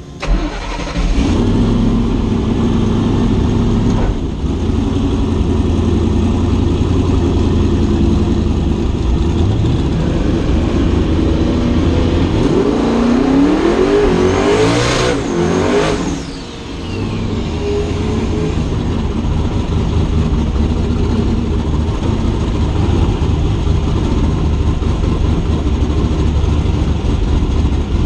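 Drag car engine running loudly. Around the middle it revs up in a few rising steps, drops away briefly, then settles back to steady running.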